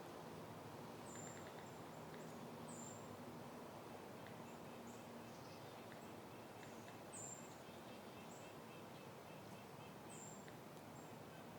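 Faint outdoor ambience of soft wind, with a small bird repeatedly giving short, high, slightly falling chirps every second or two.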